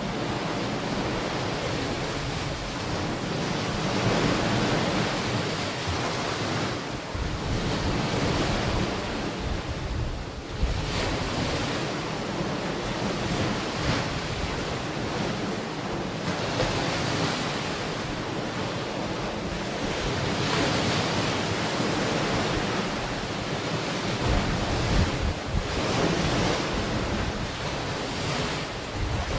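Ocean surf washing onto a beach: a continuous rushing that swells and eases every few seconds, with wind buffeting the microphone.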